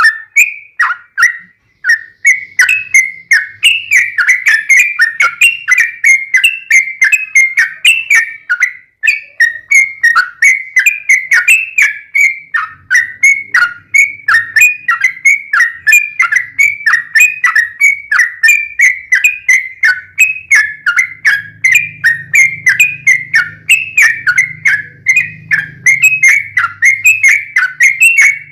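Yellow-vented bulbul (trucukan) singing a long, unbroken run of quick, loud chattering notes, about three or four a second. It is the rapid 'ropel' song that keepers play to set a caged bird singing back.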